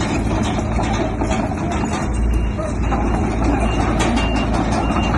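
Diesel engines of heavy earthmoving machinery running steadily under load, with constant clanking and rattling.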